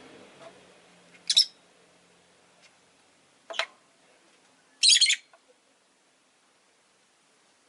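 Rosy-faced lovebird giving three sharp, high chirps a second or two apart, the last one a little longer.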